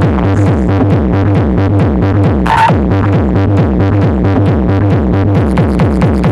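Electronic dance remix played loud through a competition sound system, with a steady pounding beat and heavy bass. A brief bright sound effect cuts in about two and a half seconds in.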